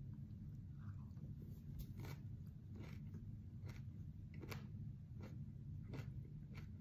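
A person chewing a bite of ghost pepper with the mouth closed: faint, even crunches about every three quarters of a second over a steady low hum.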